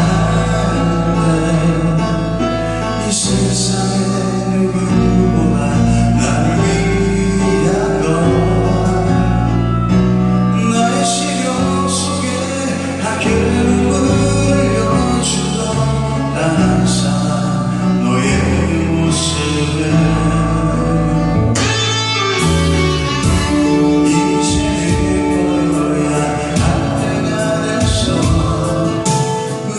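A band playing a pop-rock song live, with guitar and a voice singing.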